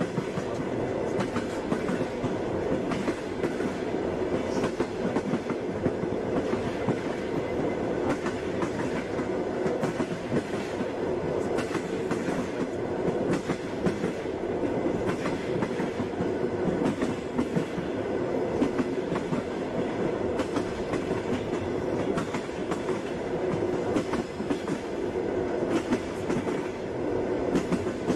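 Moving passenger train: the steady rumble of the railway carriage, with the wheels clicking over rail joints again and again.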